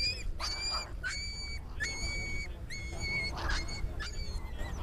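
A bird calling over and over in short, flat, shrill notes, about two a second. A steady low rumble runs underneath.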